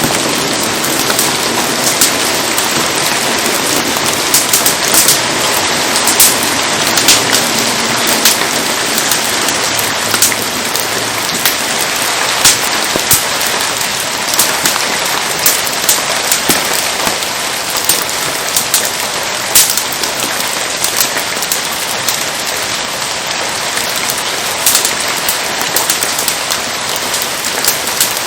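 Steady rain falling, a dense even hiss with frequent sharp ticks and pops scattered through it.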